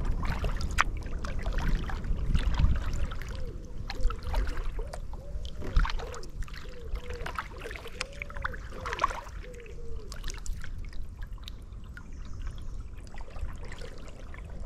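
Kayak paddle strokes on river water: the blades dip and splash, with water trickling and dripping off them between strokes.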